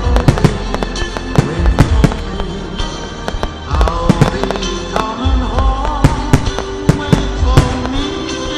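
Fireworks bursting in a rapid, irregular series of loud bangs, over music playing with held, shifting notes.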